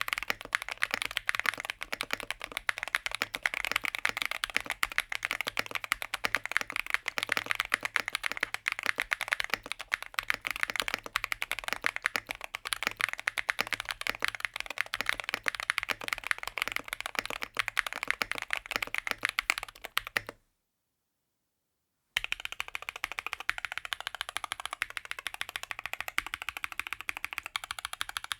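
Rapid, continuous typing on a Rexus DAXA M61/M64 60% mechanical keyboard, a steady stream of keystroke clacks. It cuts off abruptly about two-thirds of the way through. After a short dead-silent gap it starts again with a slightly different tone, as from another plate and case combination.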